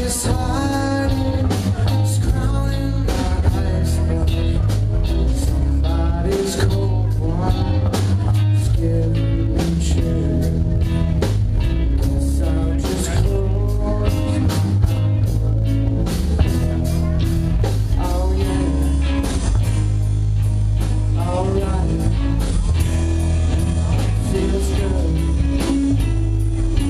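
Live rock band playing: electric guitar, bass and drum kit, with a singer's voice over them.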